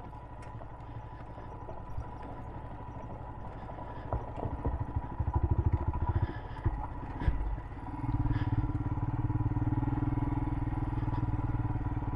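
Royal Enfield Himalayan's single-cylinder engine ticking over, then given uneven bursts of throttle around the middle, and running steadily under more throttle for the last few seconds as the bike is ridden slowly off-road.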